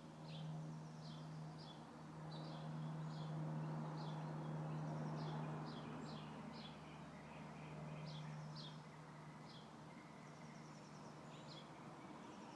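Small birds chirping over and over in short, high calls, over a soft rustle of wind through tree leaves. A steady low hum sits underneath and fades out near the end.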